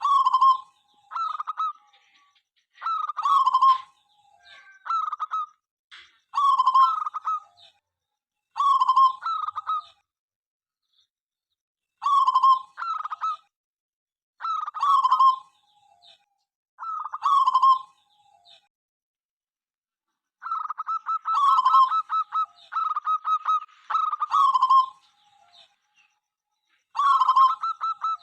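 Zebra doves (perkutut) cooing: short phrases of clipped coos repeated every one to two seconds, with a couple of brief pauses. From about 20 seconds in, a fast run of quick, evenly spaced notes sounds under the coos.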